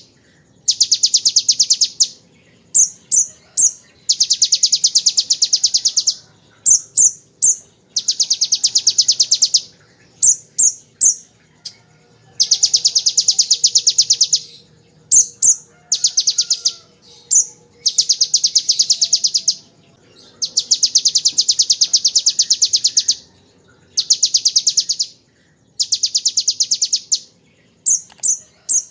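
Olive-backed sunbird (kolibri ninja) singing. It gives long, very fast rattling trills of one to two seconds, in the manner of a bar-winged prinia's rattle, alternating with quick runs of two or three sharp high chirps, over and over.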